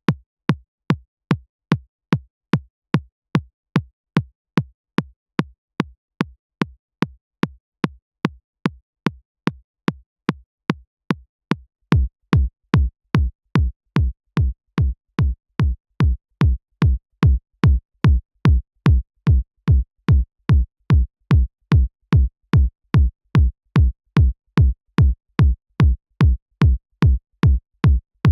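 Synthesized electronic kick drum looping on its own about twice a second, each hit a fast downward pitch sweep into a deep low thump. About twelve seconds in, the kick turns louder, with a fuller low end.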